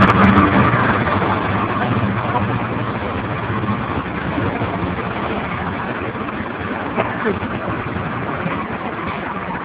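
A Class 66 diesel locomotive's engine note fades in the first few seconds as it pulls away. Then comes the steady rumble of tank wagons rolling slowly past over the level crossing, with a sharp clack of wheels on the rails about seven seconds in.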